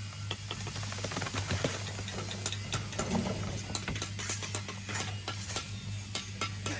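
Many quick, irregular clicks and light taps over a steady low hum.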